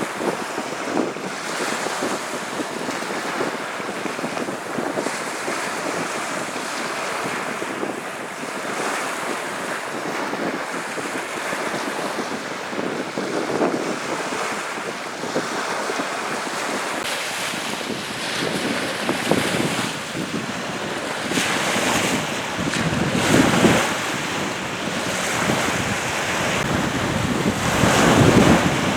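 Wind-driven waves washing on a salt-lake shore, with strong wind buffeting the microphone. The rush swells in gusts that are loudest in the last third.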